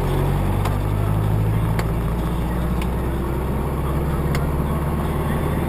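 Car engine and road noise, a steady low drone, with a few faint clicks.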